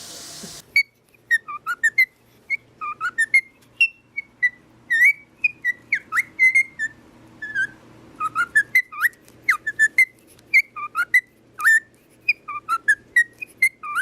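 A parrot chirping and whistling in quick short notes, several a second, some sliding up or down in pitch.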